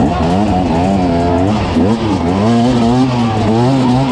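Off-road vehicle engine revving hard, over and over, its pitch climbing and dropping every second or so, as it is worked up a steep step.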